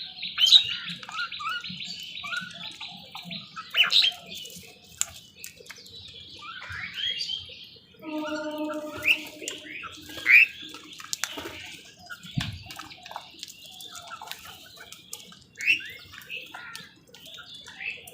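A crowd of crows and other birds calling over one another, with many short chirps and squawks. About eight seconds in comes one longer, lower call.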